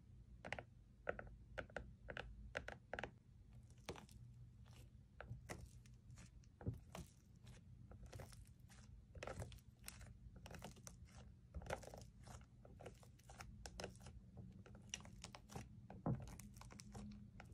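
Slime being squeezed and poked by hand: faint, irregular crackling and popping clicks.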